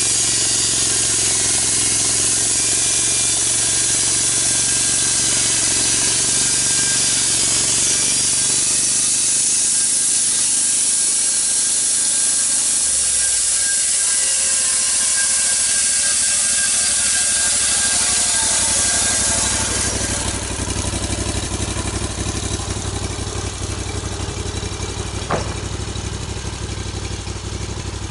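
Engine-driven sawmill cutting through a big log: the engine runs hard under a loud hiss of the cut. About 20 s in the cut ends, the hiss stops and the engine runs on more quietly.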